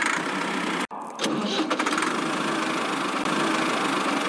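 A small engine running steadily. It cuts out abruptly just under a second in and comes back a moment later.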